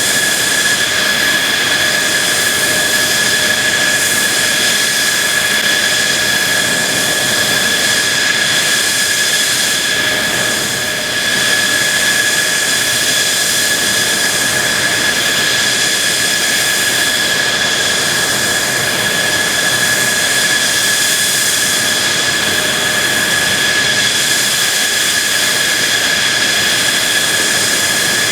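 Mitsubishi F-2B fighter's General Electric F110 jet engine running steadily: a continuous roar with a high, steady whine on top.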